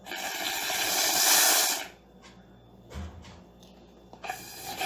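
Blowing hard through a straw into a bowl of soapy water to make foam: a rushing, bubbling noise that builds for nearly two seconds and then stops, with a soft knock about three seconds in and a shorter blow near the end.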